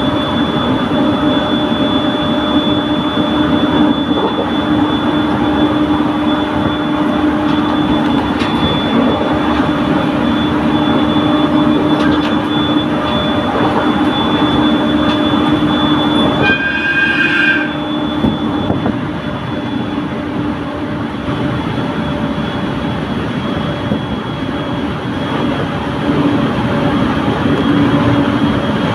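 Train running along the line, heard from on board: a steady rumble of wheels and running gear with a steady hum. About two-thirds of the way through there is a brief high tone lasting about a second, after which the running noise is a little quieter.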